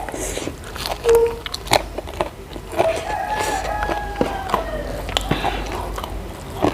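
Close-miked eating: a person biting and chewing food, with many short wet mouth clicks and smacks. A drawn-out hum sounds around the middle.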